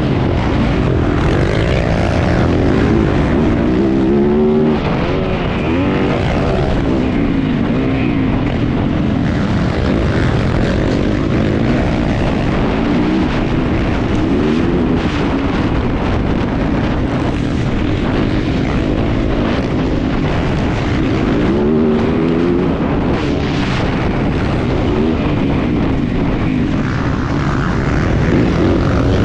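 Yamaha YZ450F four-stroke single-cylinder motocross engine being ridden hard, its pitch climbing and dropping again every few seconds as the throttle is opened and shut and gears change.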